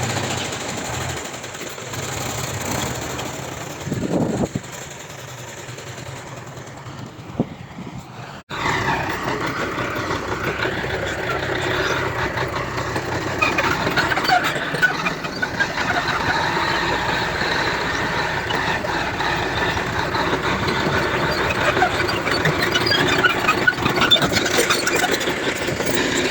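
Diesel engines of heavy earthmoving machinery running. About eight seconds in the sound cuts abruptly to a louder, busier stretch, with scattered sharp clanks and squeaks over the engine.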